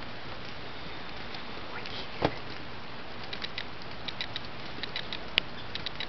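Steady rain falling, with single raindrops ticking close by, more of them from about halfway through; a louder knock about two seconds in and a sharp click near the end.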